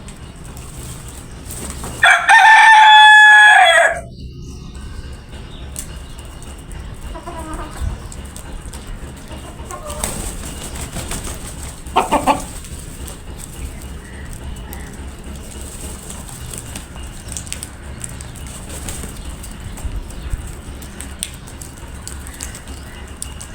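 A rooster crows once, loud, for about two seconds near the start, followed by faint hen clucking and a short, sharper call about halfway through.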